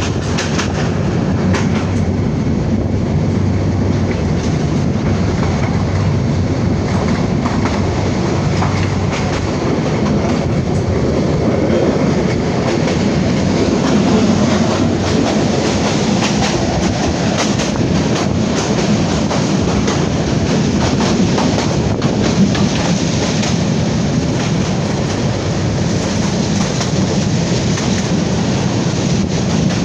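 Jamalpur Express passenger train running along the track: a steady rumble with the wheels clattering over rail joints.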